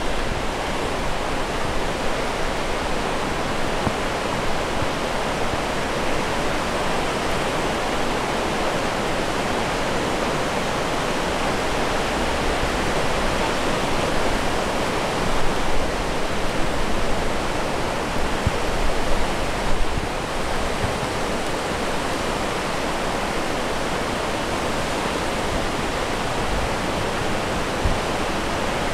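Floodwater of the swollen Afon Lwyd rushing steadily. A few brief louder gusts or bumps come about two-thirds of the way through.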